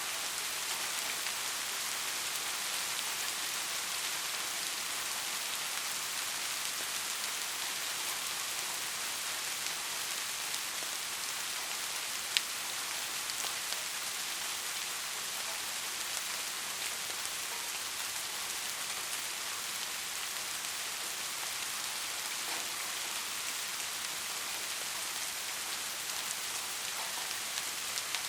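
Steady rain falling: an even hiss of many drops with scattered individual drop ticks, and one sharper drop hit about twelve seconds in.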